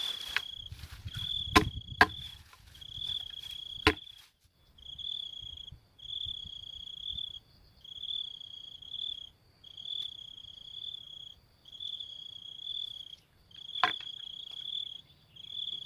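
An insect trilling in even, high-pitched bursts of just over a second each, repeating about every 1.7 s. Several sharp knocks over a low rumble in the first four seconds, and one more knock near the end.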